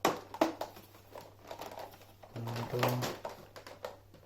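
Sharp plastic clicks and knocks as the clips of an Electrolux Precision upright vacuum's base plate are pushed back into place, two loud ones within the first half second, then lighter handling clicks.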